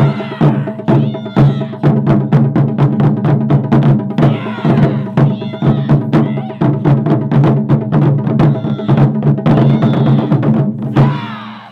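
Japanese taiko drums played by an ensemble, fast dense strikes over the steady ringing of the drum heads. The drumming stops sharply near the end, and the drums ring out briefly.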